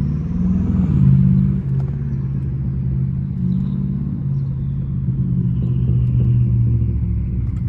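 BMW 550i V8 with catless downpipes and a straight-piped exhaust, heard from inside the car while driving. Its low exhaust drone swells briefly about a second in, then holds steady at cruise.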